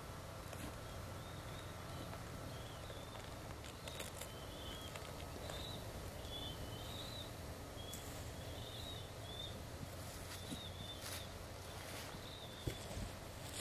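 Birds giving short, high chirping calls again and again over a steady low rumble of outdoor background noise, with a few sharp knocks near the end.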